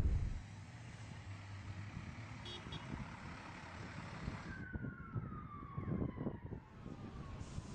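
Outdoor traffic rumble, with a siren falling slowly in pitch through the second half.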